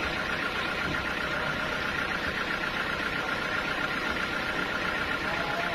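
Sawmill machinery running steadily, a continuous engine-like drone with a faint steady high tone.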